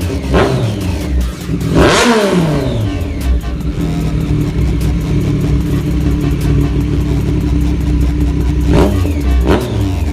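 Superbike engines with loud aftermarket exhausts, revving sharply up and back down several times: one big rev about two seconds in and a quick run of shorter revs near the end, with the engine running steadily in between.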